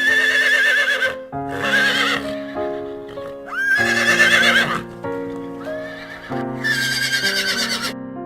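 Horse whinnying four times, each neigh quavering in pitch, over a steady keyboard melody.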